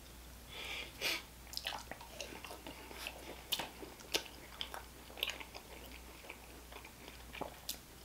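Close-up chewing of a biscuit dipped in red pepper jelly: faint mouth clicks and smacks at irregular intervals.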